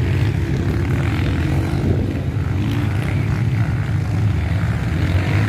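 Dirt bike engines running steadily.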